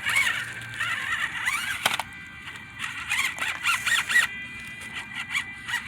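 Electric motor and drivetrain of a small 1/24-scale RC crawler truck whining loudly. The whine wavers up and down in pitch as the throttle is worked, and eases to a steadier whine after about four seconds.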